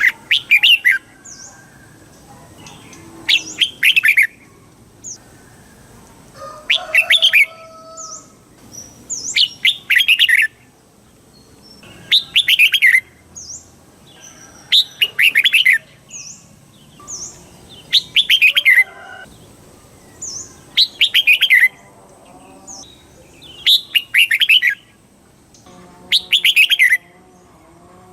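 Red-whiskered bulbul singing: a short, loud, warbling phrase repeated about every three seconds, ten times over, with faint high chirps in between.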